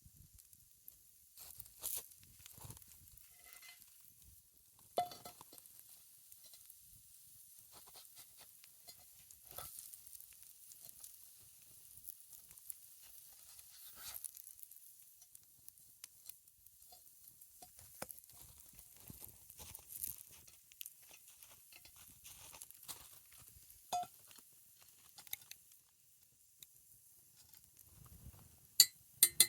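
Faint sizzling from pancakes cooking in a cast iron skillet over a campfire, with scattered small crackles and pops. A few sharp clinks near the end.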